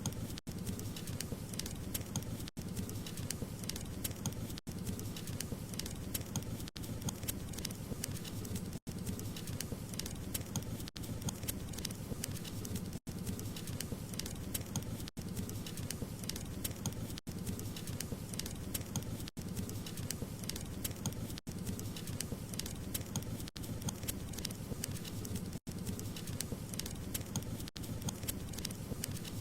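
Wood fire crackling and popping steadily over a low rumble of flames, with very brief dropouts about every two seconds.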